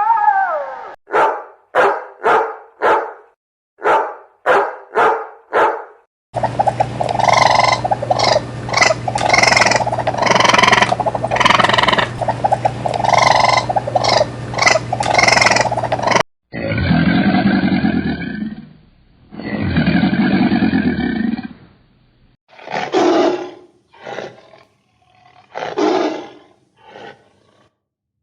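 A string of big-cat calls from several recordings. It opens with a run of short calls about twice a second, then a stretch of repeated calls over a steady hum, then two long low roars a couple of seconds apart, and ends with a few shorter calls.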